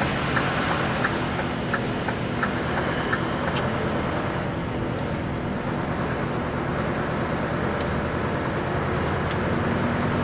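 Vehicle engine running steadily as it drives slowly, heard from inside the vehicle. Over the first three seconds a turn signal ticks about every 0.7 s while the vehicle turns.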